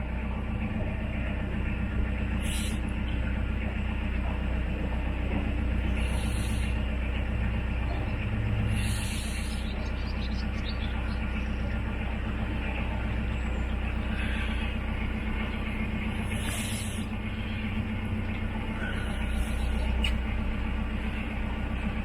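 Narrowboat's inboard diesel engine running steadily at cruising revs, a constant low hum. Short high hisses come through every few seconds.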